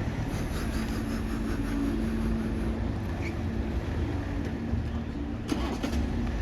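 A motor vehicle engine running with a steady low rumble and hum, with one sharp knock about five and a half seconds in.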